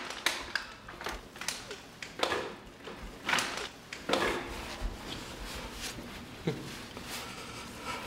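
A man grunting and groaning in pain after a fall down stairs: a string of short, strained exhalations in the first half, then quieter breathing and one low falling groan about six and a half seconds in.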